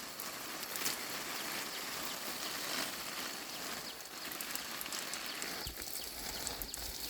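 Water spraying from a garden hose onto rubber saplings and dry soil: a steady hiss and patter with faint splashes.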